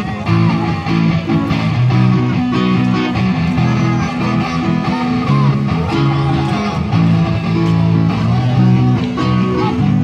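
Live guitar music: chords changing about once a second over a bass line, from a street busker's performance of a Thai pop song.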